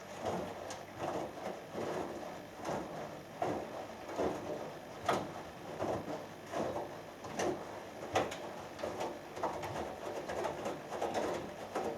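Hoover Dynamic Next washing machine in its main wash, the drum turning and tumbling the wet laundry, giving repeated sloshing swishes about once or twice a second.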